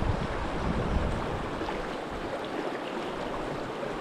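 Fast river current rushing around a wader's legs, a steady, even rush of water, with some wind buffeting the microphone.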